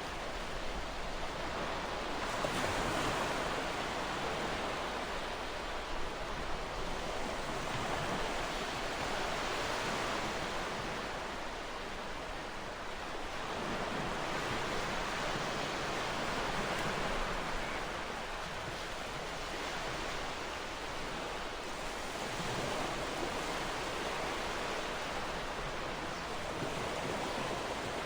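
Ocean surf washing on a shore: a steady rush of waves that swells and eases every few seconds.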